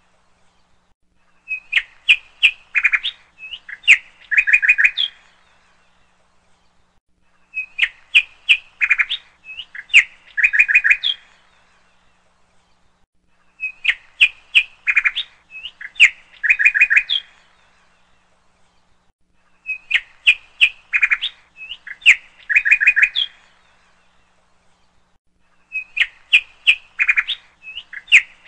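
Songbird chirping in the same phrase over and over: a burst of quick, bright chirps about three and a half seconds long repeats every six seconds, five times. The repeats match exactly, like a looped birdsong recording.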